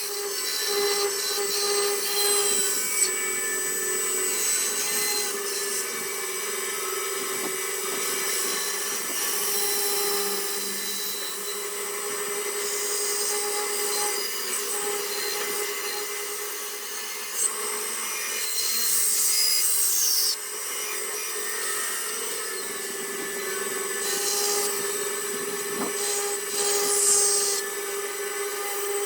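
Small electric rotary carving tool running with a steady whine, its bit grinding into torreya wood in repeated short bursts.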